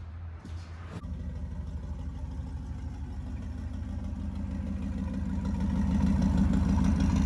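Turbocharged 1962 Chevy's engine idling with an even pulse while it warms up after an HEI distributor swap. The engine sound comes in abruptly about a second in and grows gradually louder.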